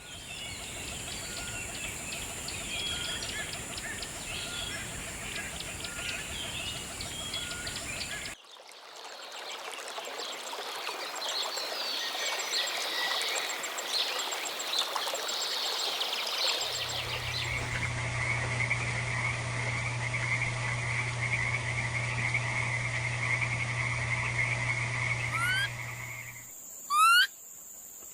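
A chorus of frogs calling at once, changing abruptly about 8 seconds in and again about 17 seconds in, where a steady low hum and a continuous high trill join it. Near the end come a couple of short, loud, rising calls.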